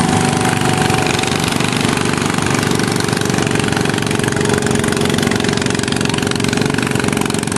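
Pulling garden tractor's engine running hard at a steady pitch under load, dragging the weight sled.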